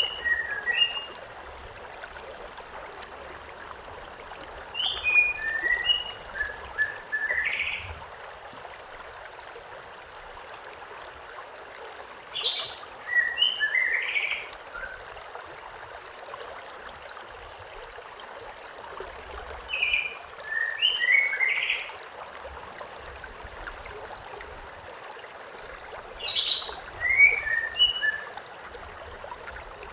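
Stream water running steadily, with a bird singing the same short phrase about every seven seconds: a high note sliding down, then a quick cluster of lower chirps.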